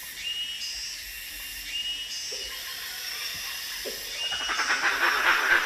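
Rainforest ambience: insects and birds calling, with steady high-pitched trills and short chirps. A louder rasping buzz swells in about four seconds in.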